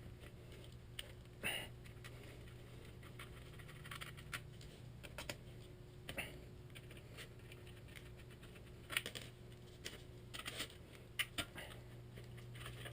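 Faint, scattered clicks and scrapes of a hand tool on the screws of a motorcycle exhaust heat shield being removed.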